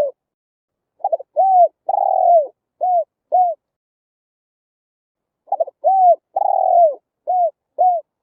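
Spotted dove cooing: two song phrases, each a few short quick notes followed by longer arched coos, with a pause of about two seconds between the phrases.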